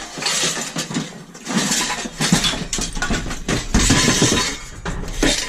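Hard scrap clattering and clinking as it is handled and pulled about, in several bursts of knocks, cracks and rattles.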